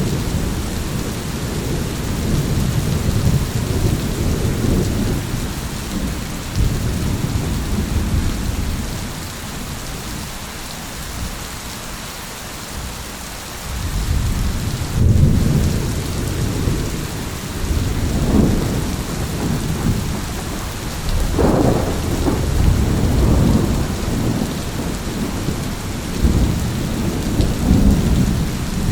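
Steady heavy rain with rolling thunder, the rumbles easing off a little over a third of the way in, then building again with several stronger rolls in the second half.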